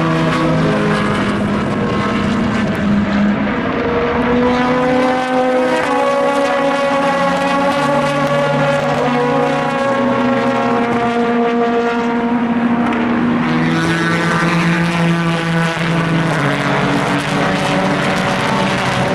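Endurance race car engines running at racing speed, more than one at a time, their pitch stepping up and down in jumps as they shift gears.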